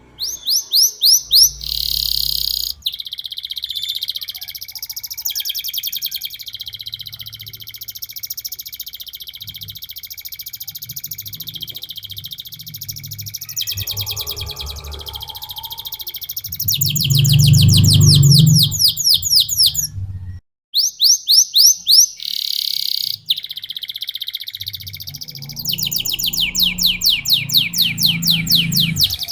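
A domestic canary singing its rolling song, alternating fast strings of quick falling notes with long unbroken trills. The song cuts out briefly about two-thirds of the way through, and a low rumble sits under it for a few seconds just before.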